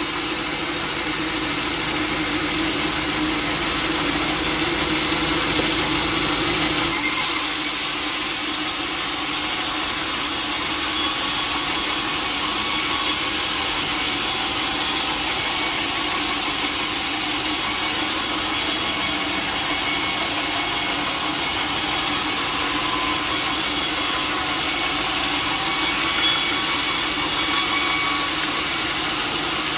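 Sawmill saw cutting through a log: a steady, continuous sawing noise whose tone shifts, turning brighter and thinner, about seven seconds in.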